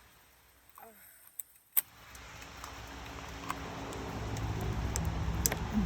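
A motor vehicle's engine hum, growing steadily louder from about two seconds in, with scattered sharp clicks. Before it, a short near-silent stretch holds two clicks.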